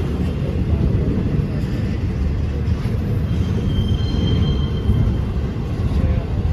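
A train rolling past with a steady low rumble of wheels on rail. A faint high wheel squeal comes in briefly about three seconds in.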